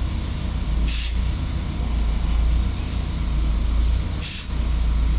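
Mazda B-series pickup's four-cylinder engine idling steadily on a newly fitted Holley Sniper throttle-body fuel injection, still warming up. Short hisses come twice, about a second in and again near the end.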